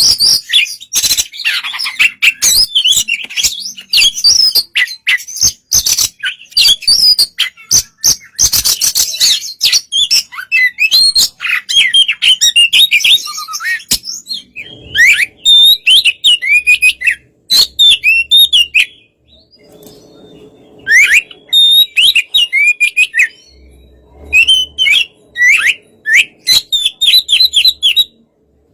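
Oriental magpie-robin (kacer) singing: a fast, dense run of chirps and harsh squawks, then from about halfway, sparser, loud whistled phrases with short pauses between them.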